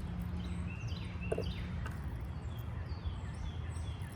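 Small songbirds chirping outdoors, a string of short, quick falling notes, over a steady low rumble of background noise.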